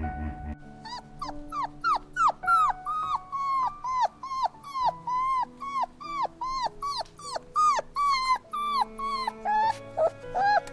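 An animal giving a long series of short, high calls, each falling in pitch, about two to three a second.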